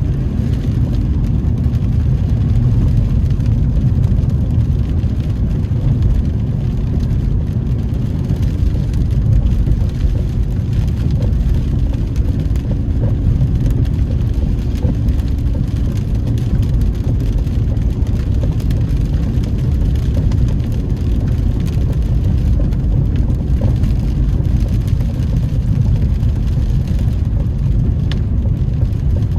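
A car being driven, heard from inside the cabin: a steady low rumble of engine and road noise with a faint hum above it.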